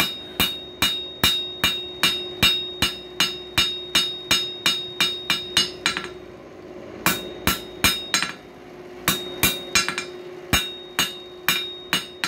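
Hand hammer striking hot coil-spring steel on an anvil, about two to three blows a second with a steady ring, drawing out the screwdriver's flat bit into a taper. The blows stop for about a second about six seconds in and again briefly around eight seconds, then go on.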